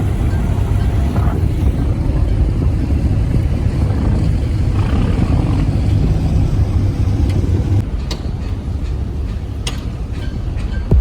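Fishing boat's engine running with a steady low rumble, mixed with wind and water noise. The rumble eases a little about eight seconds in, and a few faint clicks follow.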